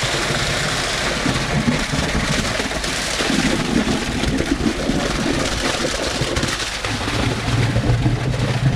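Concrete boom pump running steadily while wet concrete pours and splatters from the end hose. A low engine hum strengthens about seven seconds in.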